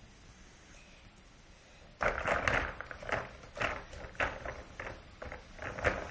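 Plastic toys being handled: irregular rustling and knocking that starts about two seconds in, after a short quiet spell.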